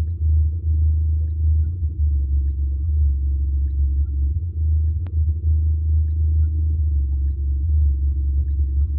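Car audio subwoofer in a rebuilt enclosure playing the bass of a rap track: loud, continuous deep bass with almost nothing heard above it.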